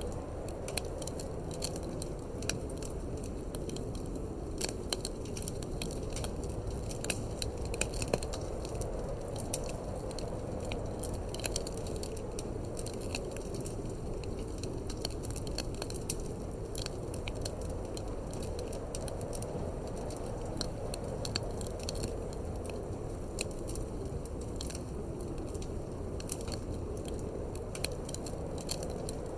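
Wood fire crackling in a fireplace, with frequent small sharp pops and snaps, over a steady low rushing of wind.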